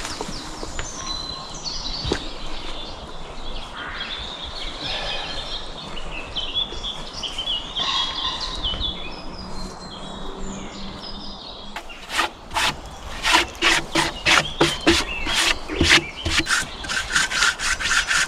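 Small birds chirping over a steady forest background, then from about twelve seconds in a run of loud, rhythmic scraping strokes, two to three a second.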